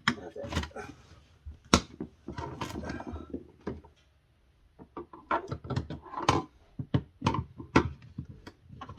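A screwdriver prying a plastic refrigerator freezer panel loose: a run of sharp plastic clicks and knocks with a stretch of scraping, a brief pause, then more clicking.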